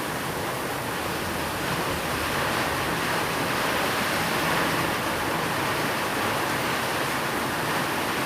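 Steady rain, an even hiss with no single drops standing out, swelling slightly partway through.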